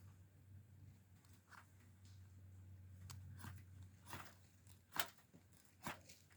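Faint clicks, knocks and rustles of something being handled, the sharpest knock about five seconds in, over a low hum that fades out about four seconds in.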